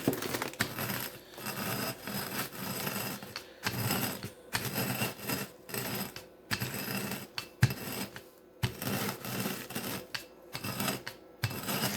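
Rolling pin crushing fully dried jalapeno rings inside a plastic bag: crinkling plastic and crackling of the brittle pepper, in repeated rolling strokes that swell and fade.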